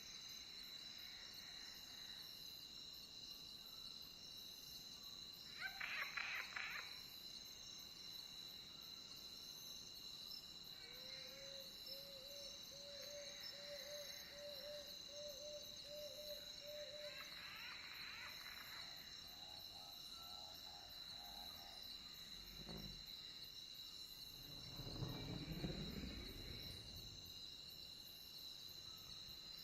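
Night ambience of a steady, faint cricket chorus, high-pitched and unbroken. A few brief animal calls sound over it, including a run of quick repeated notes a third of the way in. Near the end comes one louder low rumble.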